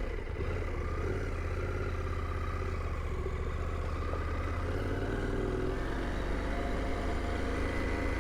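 KTM 890 Adventure R's parallel-twin engine running steadily at low revs.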